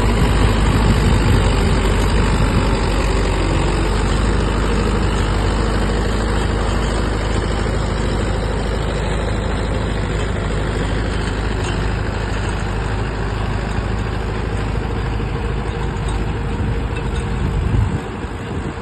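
Tractor's diesel engine running steadily with a deep, low hum, slowly fading, then dropping off sharply near the end.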